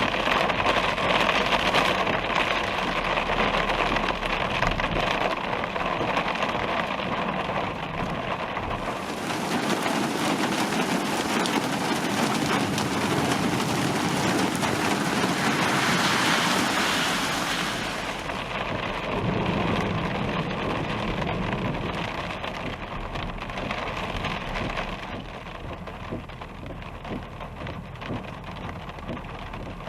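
Rain falling during a thunderstorm, with low rolling thunder. The rain hiss grows stronger for several seconds in the middle, and the whole sound eases off toward the end.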